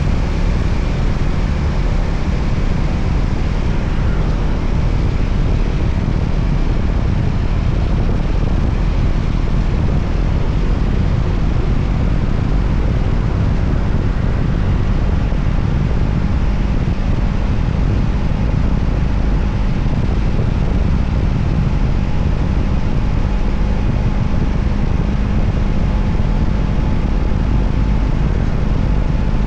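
Voge 300ACX motorcycle underway at a steady speed: a constant rumble of wind and road noise on the microphone, with the engine holding an even drone.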